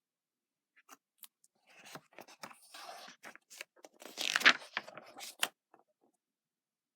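Paper rustling and crinkling as a storybook page is handled and turned, in a run of uneven crackles that is loudest about four and a half seconds in.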